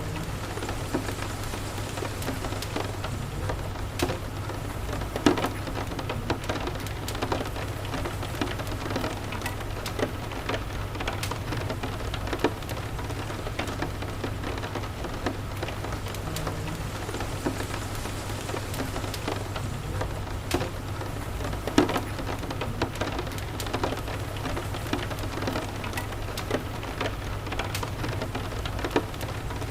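Steady rain with a crackling wood fire: irregular sharp pops and crackles, a couple of them louder, over an even rain hiss and a steady low rumble.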